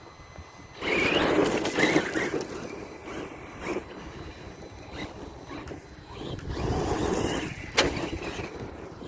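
Team Associated Rival MT10 RC monster truck driving hard: its brushless electric motor whining and its tyres churning dirt in two bursts of throttle, one about a second in and another around six to seven seconds in. A single sharp knock comes near the end.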